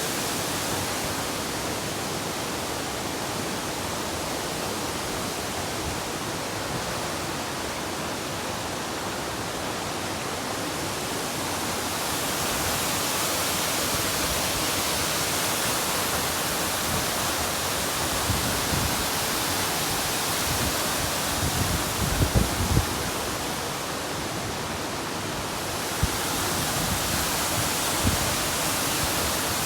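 Steady rush of falling water, a continuous even hiss that gets louder and brighter about twelve seconds in. A few low thuds come near three-quarters of the way through.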